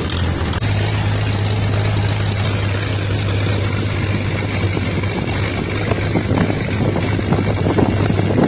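An engine running steadily with a constant low hum, with wind rumbling on the microphone.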